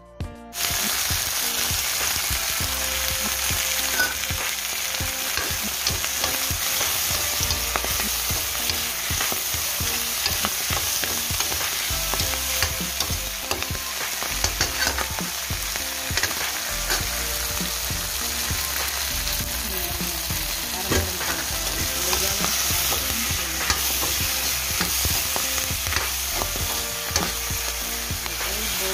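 Leafy greens and chopped garlic sizzling in hot oil in a pan, stirred with a spatula that clicks and scrapes against the pan again and again.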